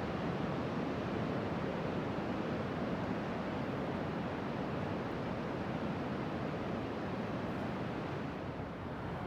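Ocean surf breaking on a beach: a steady, unbroken wash of noise.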